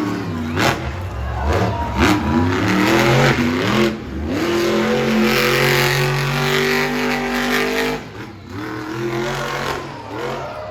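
Monster truck engine revving hard: the pitch climbs in rising and falling pulls, then is held high and loud for several seconds. It drops off about eight seconds in, followed by a few shorter revs up and down.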